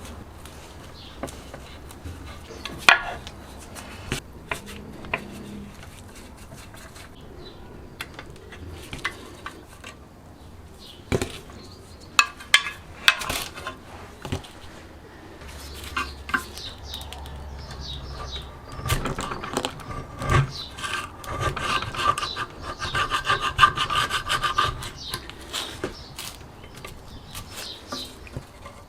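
Hand work on a part at the bench: scattered clicks and knocks, then about six seconds of quick rubbing or scraping strokes past the middle.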